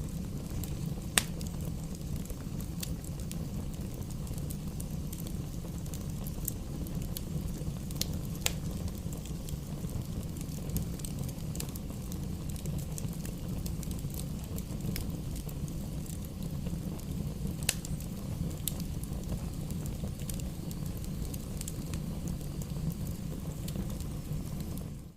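Campfire burning with a steady low roar, broken by scattered sharp crackles and pops of the wood, a few louder snaps standing out.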